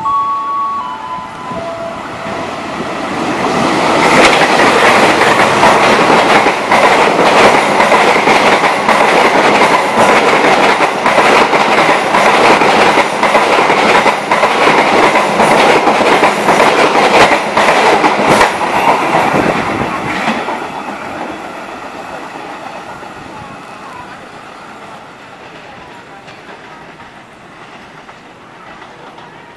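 Passenger train hauled by a diesel locomotive running through the station at speed: the noise builds as it approaches, then the coaches pass close by with rapid wheel clicks over the rail joints before it fades away. A short series of chime-like notes sounds at the very start.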